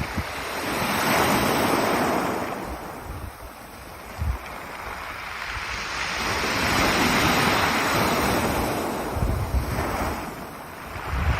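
Ocean waves breaking and washing up the pebble beach of Jasper Beach, Maine, in two slow swells of rushing surf that fall back between them. Low buffeting of wind on the microphone comes through now and then.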